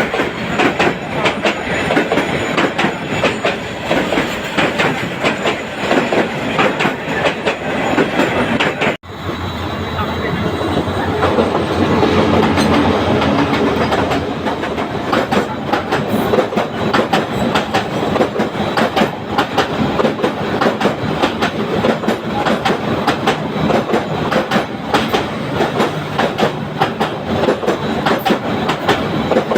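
Dolonchapa Express passenger train running on the rails, its wheels clacking rhythmically over the rail joints. The sound breaks off for an instant about nine seconds in, then comes back louder for a few seconds.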